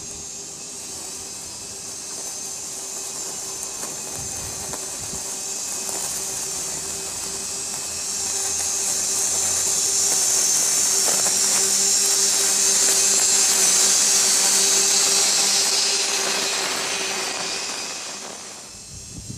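A machine running with a steady whine and a hiss that grows louder through the middle, then fades away near the end.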